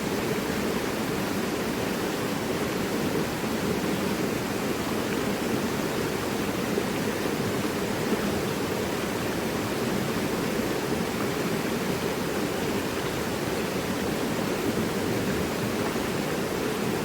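Mountain river rushing steadily, a continuous full water noise without breaks.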